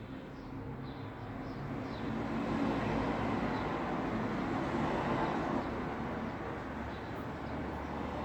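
Road traffic noise: a steady rush of vehicles, swelling louder from about two seconds in.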